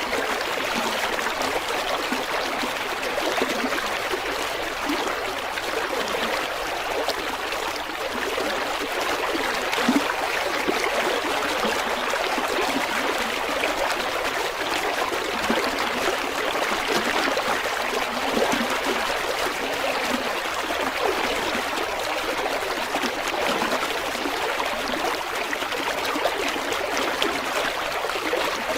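River water flowing and babbling steadily over rocks, a constant rushing with fine splashing and gurgling.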